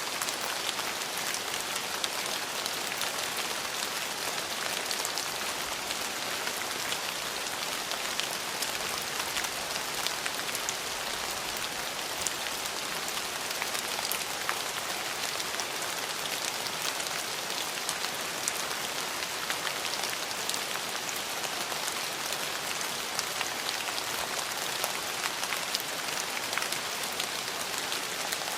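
Steady rain falling: an even hiss of rainfall dotted with many small ticks of individual drops striking surfaces.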